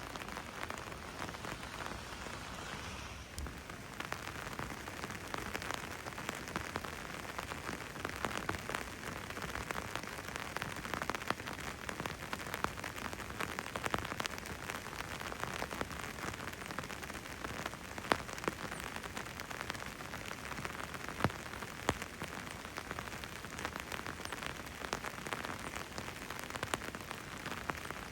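Steady rain falling, with many sharp ticks of single drops striking hard surfaces close by.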